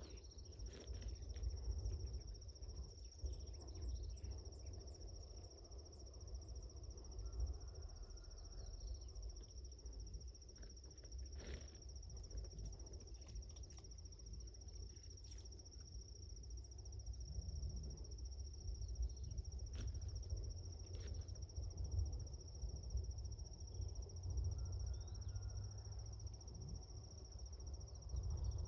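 Evening insect chorus, crickets trilling as one steady high-pitched tone, with a low rumble underneath and a few faint scattered clicks and rustles.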